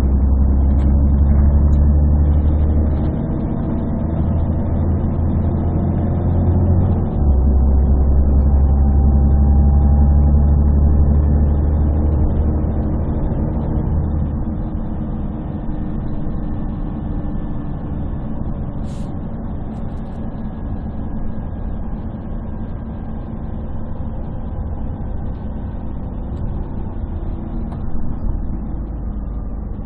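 Interior of a 1998 Scania CN113CLL city bus on the move: its Scania DSC 11.71 diesel and Voith D863.3 automatic gearbox pulling strongly with a deep hum and slowly rising pitch, dipping briefly about 3 and 7 seconds in, then running quieter and steadier from about halfway. The sound is bass-heavy from a partly covered phone microphone.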